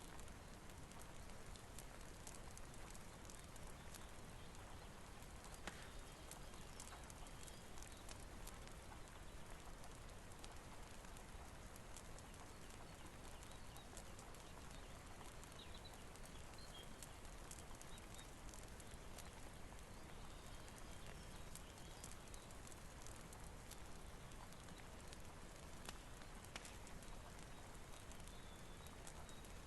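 Faint, steady rain with scattered small crackles and ticks from a wood fire in a fireplace.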